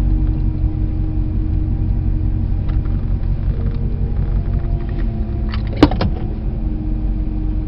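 A car engine running at a low, steady idle with a deep rumble. A brief sharp clatter of clicks cuts in a little before the end.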